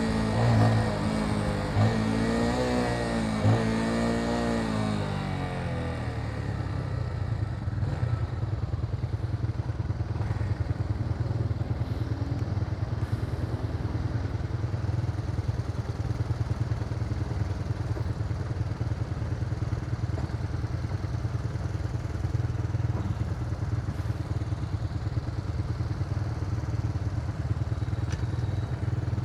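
Motorcycle engine running while riding, its revs rising and falling for the first five seconds or so, then settling into a steady low drone with road and wind noise.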